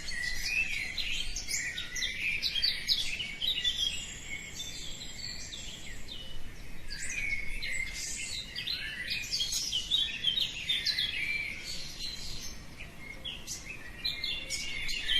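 Many small birds chirping and singing at once, a dense dawn chorus of quick overlapping calls and trills, thinning briefly a few times.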